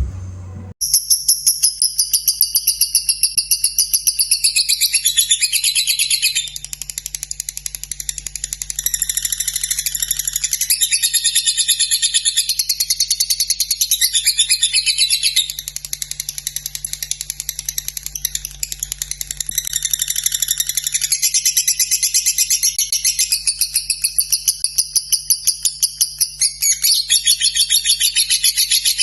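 Lovebird singing its long unbroken chattering song (the 'ngekek'), a fast run of pulsed high-pitched notes that starts about a second in and never breaks, over a faint steady low hum.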